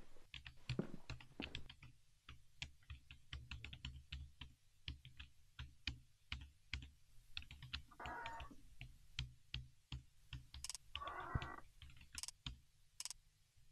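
Laptop keyboard being typed on: faint, irregular key clicks in quick runs, over a low hum. Two brief soft noises break in past the middle and near the end.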